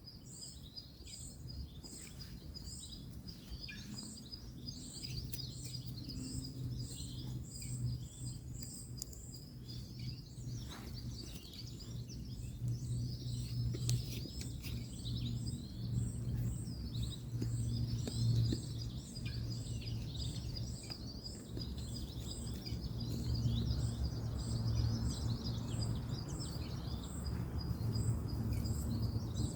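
Birds chirping and twittering, one repeating a short high chirp at an even pace, over a steady low rumble of distant road traffic that grows louder toward the end.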